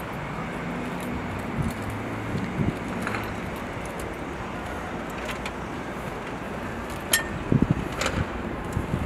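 A rail vehicle running past: a steady rumble, a brief engine hum in the first few seconds, and several sharp clicks near the end.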